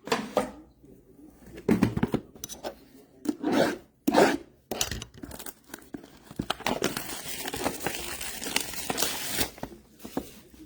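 Trading-card packaging being torn open and crinkled: several short rips and rustles, then one longer tear of about three seconds.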